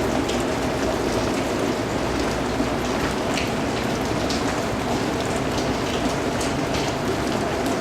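Steady rainfall, with individual drops ticking against a surface over the even hiss.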